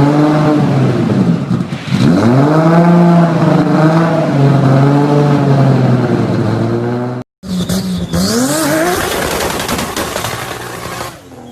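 Toyota Supra MK4's turbocharged 2JZ straight-six engine revving, its pitch rising and falling repeatedly. About seven seconds in there is a sudden cut to another run of the engine climbing in pitch under acceleration, over a loud rushing hiss.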